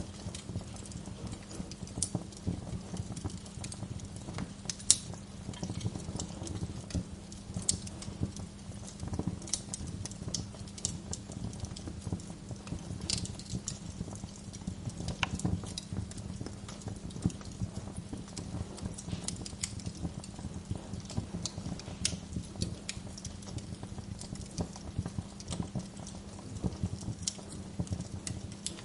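Wood fire crackling in a fireplace: a steady stream of small irregular pops and crackles with occasional louder snaps, the sharpest about five seconds in, over a steady low hum.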